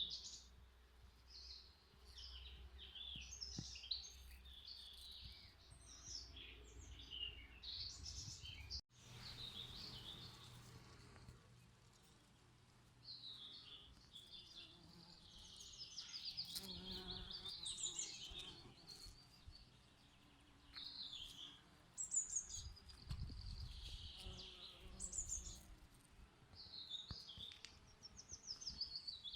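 Several songbirds singing, with many short high chirps and trills overlapping. The sound cuts out for an instant about nine seconds in, then the birdsong carries on.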